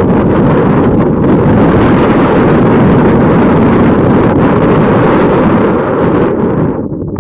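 Strong wind buffeting the microphone: a loud, rumbling roar that eases off near the end.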